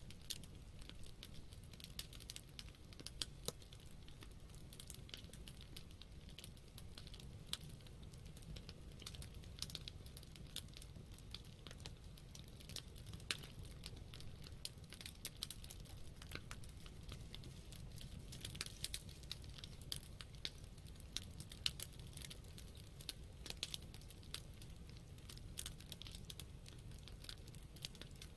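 Wood campfire crackling: frequent irregular sharp pops and snaps over a faint steady low rumble of the burning fire.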